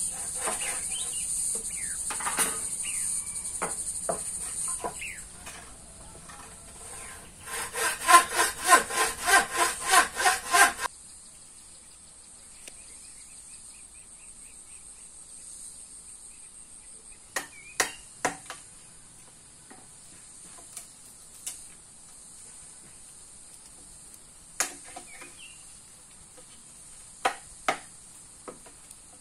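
Insects trilling steadily and high-pitched. About a third of the way in comes a loud run of rhythmic scraping strokes, about three a second, lasting a few seconds, then scattered sharp clicks.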